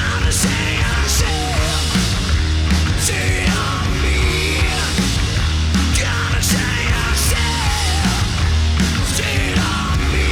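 Hard rock band playing: heavy bass, a steady drum beat and distorted electric guitar.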